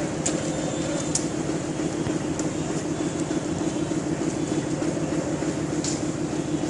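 Train running along the track: a steady rumble with a few short clicks now and then.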